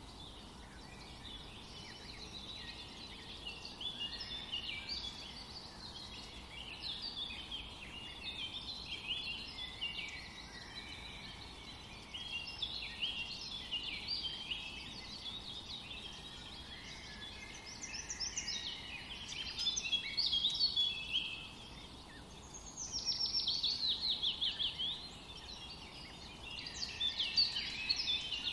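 Small birds chirping and singing without a break, with a fast descending trill about three-quarters of the way through.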